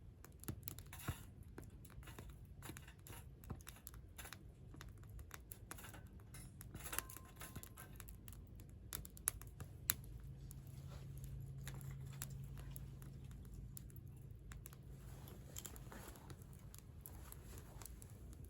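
Campfire crackling, with many small irregular pops and ticks and a few sharper pops near the middle, over a faint low rumble.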